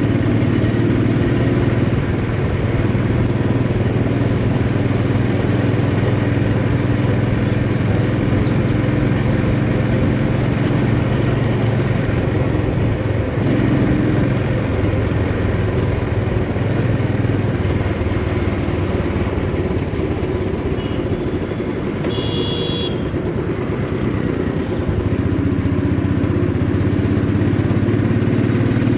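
Motorcycle engine running steadily under way, its note dropping off for a stretch in the middle and picking back up near the end. A brief high-pitched beep sounds about two-thirds of the way through.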